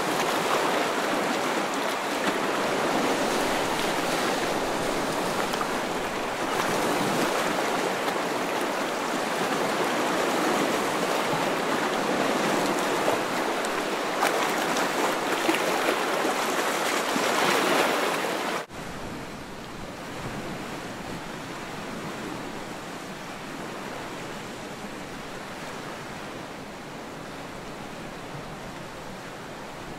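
Steady rushing water, a dense even wash of noise. About two-thirds of the way through it cuts off abruptly to a quieter, softer ambience of the same kind.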